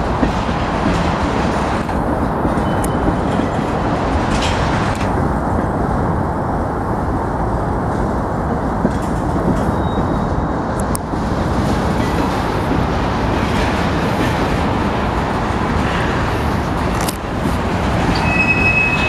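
Freight cars of a Union Pacific train rolling past, a steady loud rumble of wheels on rail with occasional clicks as the wheels cross rail joints.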